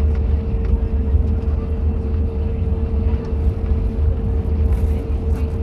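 Airbus A320neo cabin noise while taxiing: a steady, deep rumble with a constant mid-pitched hum over it.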